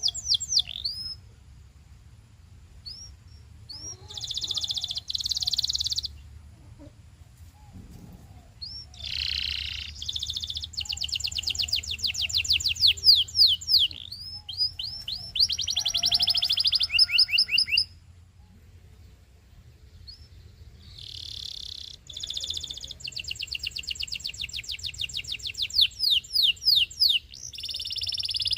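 Canary singing: phrases of fast trills and rolls of rapidly repeated high notes, broken by pauses of a second or more. A faint steady low hum runs underneath.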